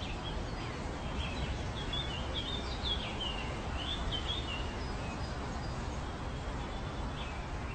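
A small bird chirping and twittering in quick, warbling phrases for a few seconds, over a steady outdoor background rumble.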